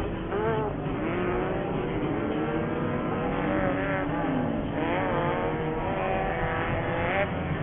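Several off-road race buggy engines revving on track, their pitches overlapping and rising and falling as the drivers get on and off the throttle.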